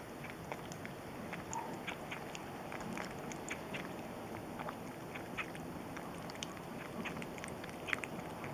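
A cat lapping milk, its tongue making quick small clicks, a few a second and irregular.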